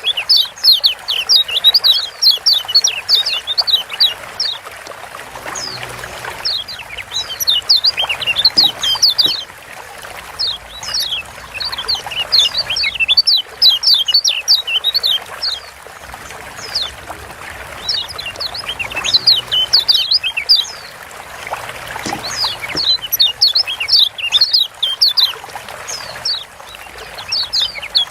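Kecial kuning (a Lombok yellow white-eye, Zosterops) giving its fast 'ciak' chirping calls: quick runs of sharp, high chirps in bouts of a few seconds with short breaks between, over a steady hiss.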